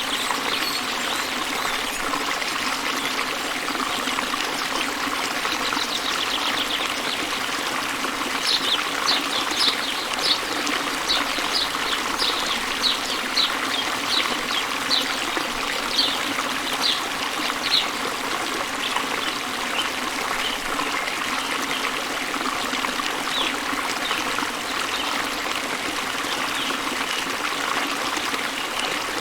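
Steady rush of falling water from a waterfall. About eight seconds in, a bird starts a run of short, high chirps at roughly two a second that lasts about ten seconds, with fainter chirps after it.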